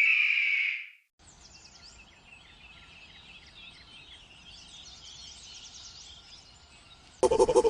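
Faint outdoor ambience with many quick, high chirps of small birds. It follows a loud, steady, high call that cuts off about a second in. Near the end a loud, pulsing animal sound with grunts starts abruptly.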